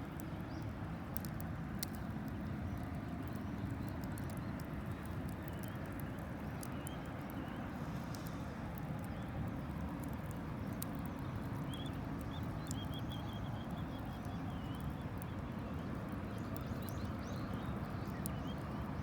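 Wood campfire crackling, with scattered sharp pops and clicks over a steady low rumble of outdoor ambience. A few faint bird chirps come in about two-thirds of the way through.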